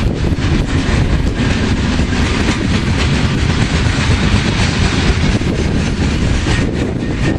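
Cars of a coal train rolling past: a steady loud rumble with irregular clatter of wheels over the rails.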